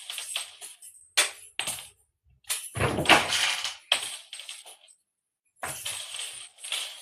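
A cat toy rattling and clattering in irregular bursts as cats play with it, broken by two short silences.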